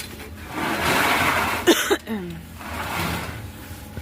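Steel grill parts being handled and scraped during assembly, with a single sharp metal clank just before two seconds in.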